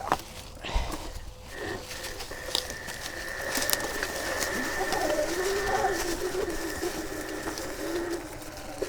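Sur Ron Light Bee electric motorcycle's drive whining as it moves slowly through brush: a thin steady tone, with a lower whine that wavers up and down with the throttle. There are scattered sharp clicks and snaps of twigs and brush against the bike.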